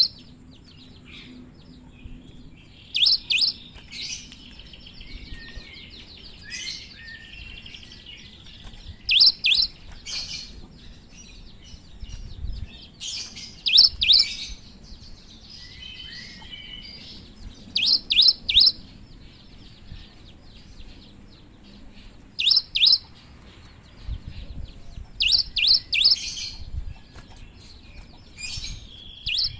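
Cinereous tit (gelatik batu) singing: loud groups of two or three sharp, high notes repeated every few seconds, with softer twittering between.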